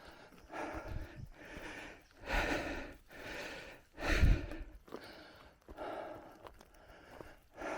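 A cyclist breathing hard, in and out about once a second. Some breaths are louder than others, with a low rumble under the loudest ones.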